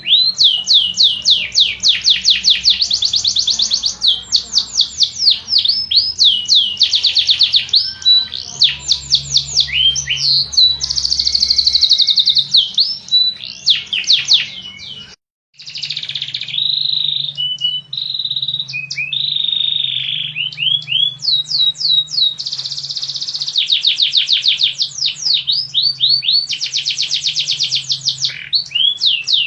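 Domestic canary singing: long runs of fast, repeated sweeping notes, with the trill changing speed and pitch every second or two. The song cuts out abruptly about halfway through and resumes straight away, over a faint steady low hum.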